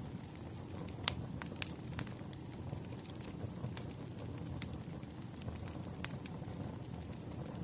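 Wood fire crackling: scattered sharp pops and snaps over a steady low rumble of burning, the sharpest pop about a second in.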